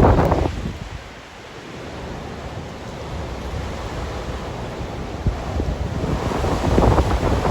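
Blizzard wind gusting and buffeting the microphone with a low, rushing roar. A strong gust at the start dies down about a second in, then the wind builds steadily again toward the end.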